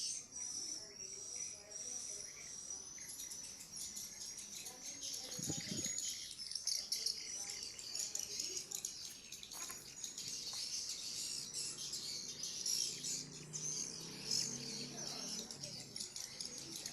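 Dense, continuous high-pitched chirping and twittering, with a low hum joining in during the second half.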